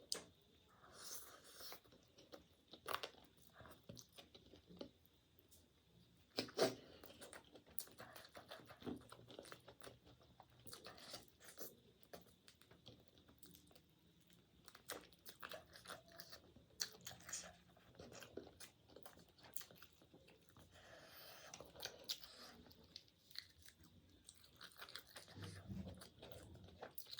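A person chewing and crunching food close to the microphone, with many short wet clicks and crackles of biting and mouth sounds; a sharper crunch about six and a half seconds in.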